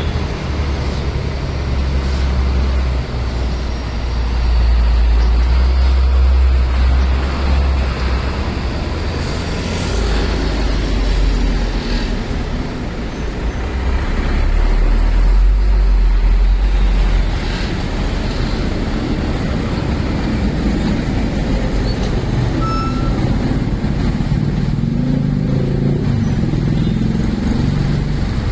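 Heavy loaded sugarcane trucks driving past, their engines giving a deep rumble that swells twice as trucks come close, over a general traffic noise.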